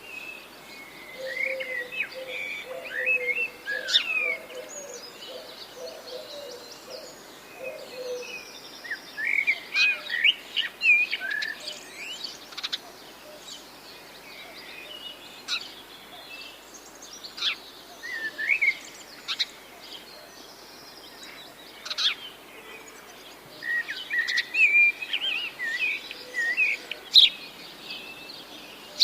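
Several songbirds chirping and singing in short bursts of high, quick notes that come in clusters. In the first eight seconds or so, a lower call is repeated over and over beneath them.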